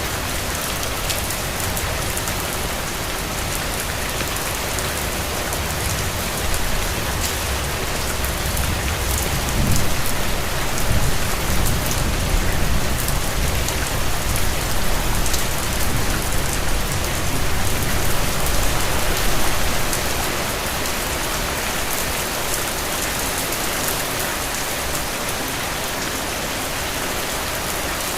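Steady rain falling on hard surfaces, with a low rumble that swells about a third of the way in and fades out some ten seconds later.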